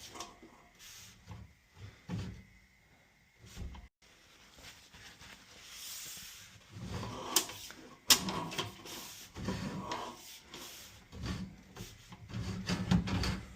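Sewer camera push cable and reel being worked by hand: irregular knocks, clicks and rubbing, with a couple of sharp clicks about halfway through and a busier run of knocks near the end.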